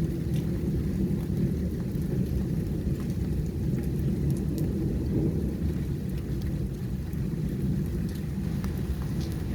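Heavy rain in a storm: a steady low rush with scattered sharp drop clicks.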